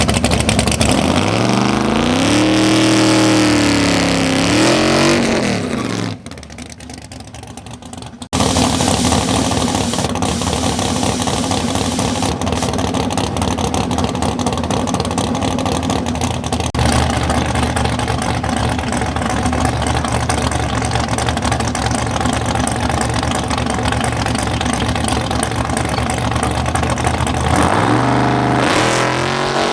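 Drag race car engine revving up and down. After a short quieter break, a long steady stretch of loud engine noise follows, and the revs climb again near the end.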